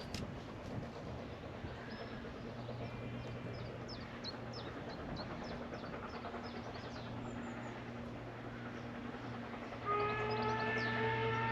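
Peckett 0-4-0T saddle tank steam locomotive working up a gradient, a steady low rumble under short high chirps; about ten seconds in its whistle sounds, one loud held note that rises slightly.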